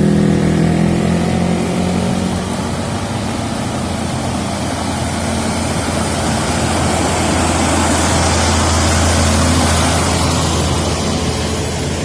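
Vehicle engines running steadily on the road, a low engine hum under road and wind noise that swells around eight to ten seconds in.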